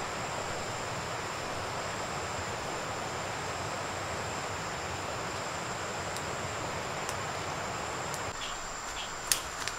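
Insects calling with one steady high buzz over a steady rushing noise. Near the end the rushing eases and a few sharp clicks sound.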